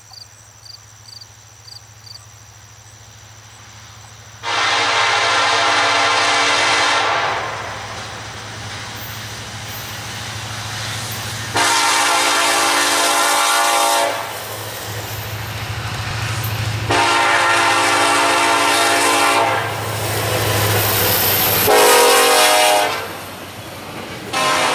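Diesel freight locomotive's air horn sounding the grade-crossing signal as the train approaches: three long blasts and a short one, with the next long blast starting at the end, while the engine's low rumble grows between them.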